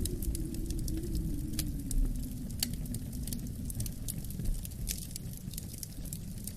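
Wood fire crackling with scattered sharp pops, the strongest about two seconds in, over a low wind rumble that slowly sinks in pitch.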